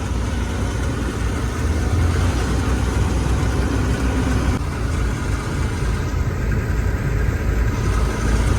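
A truck's engine running with road noise while driving through town, a steady low sound with no sudden events.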